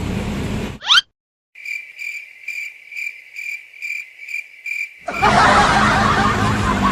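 Cricket-chirping sound effect: a high, steady chirp pulsing about twice a second over dead silence, after a quick rising whoosh. Loud noisy background cuts back in near the end.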